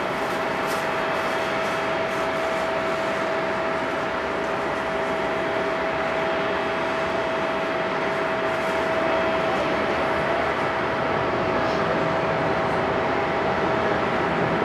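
Airbus A330-300's Rolls-Royce Trent 700 jet engines running at taxi power: a steady rushing noise with a steady whine.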